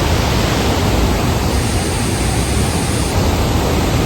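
Steady rushing of white water at Kalagala Falls, a waterfall of rapids on the Nile: an even, loud wash of noise with no breaks.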